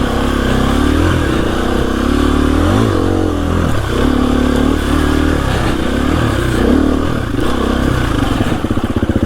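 KTM EXC-F 350 single-cylinder four-stroke dirt bike engine under way, revs rising and falling with the throttle, and dropping to low revs near the end.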